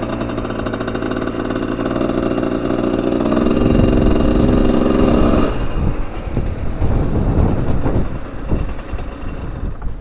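A Husqvarna 125cc motorcycle engine running under throttle for about five seconds. The note then drops off sharply, leaving a lower, uneven engine sound as the bike slows.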